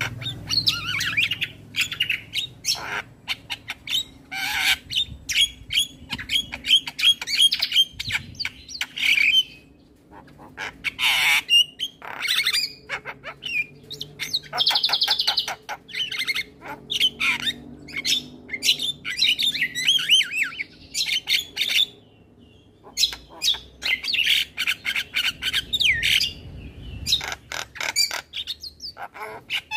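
Male Javan myna singing a long, varied song: rapid rattling clicks alternating with harsh squawks and warbled whistled phrases, with two brief pauses.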